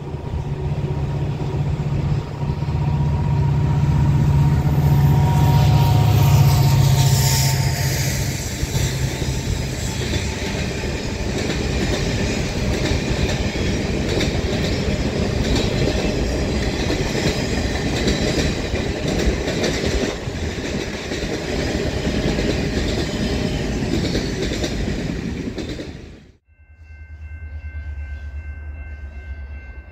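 Canadian Pacific Holiday Train passing close by: the diesel locomotive's engine rumble is loudest in the first ten seconds or so, then the lit boxcars roll past with steady wheel-on-rail noise. About 26 seconds in the sound cuts off abruptly, giving way to a quieter low rumble with a faint held chord of high tones.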